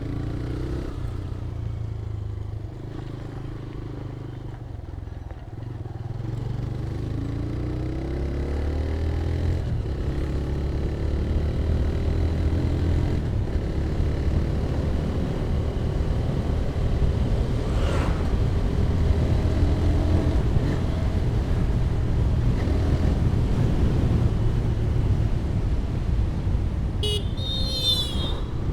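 TVS Raider 125's single-cylinder engine running on the move, rising in pitch as it accelerates about a quarter of the way in, then holding steady and louder at cruising speed. A brief high-pitched horn sounds near the end.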